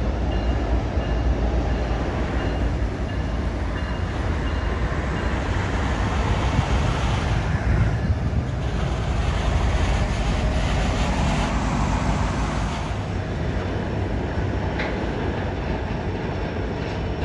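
Train rolling past on the track, the steady noise of rail cars going by.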